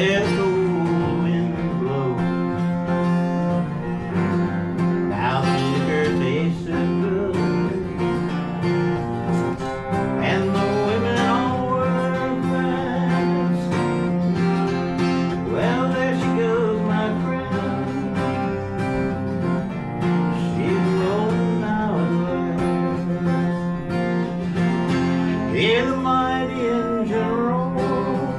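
Instrumental break of a country-folk song: acoustic guitar accompaniment under a lead melody that slides up into its notes every few seconds.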